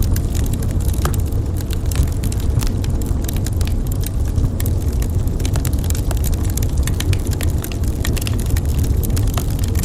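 Wood fire crackling in a fireplace: frequent sharp snaps and pops over a steady low rumble.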